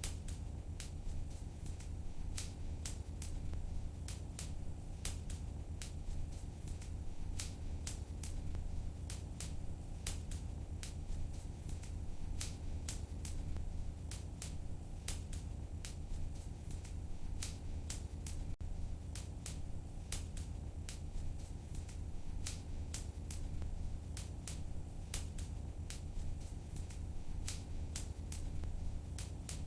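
Wood fire crackling in a fireplace: irregular sharp pops and snaps, sometimes several in quick succession, over a steady low rumble of the burning.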